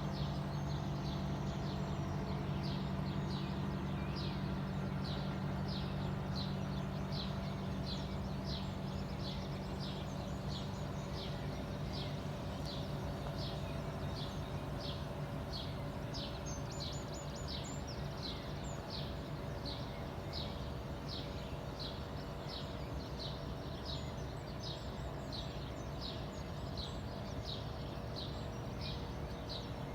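A bird repeating one short, high call at an even pace, about three calls every two seconds, over a steady low hum.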